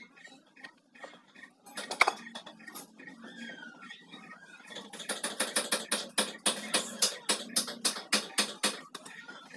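Hand tools working on a metal e-rickshaw gearbox during removal: scattered metal clinks, one sharp loud clank about two seconds in, then a fast, regular run of clicks, about four or five a second, for the last four seconds.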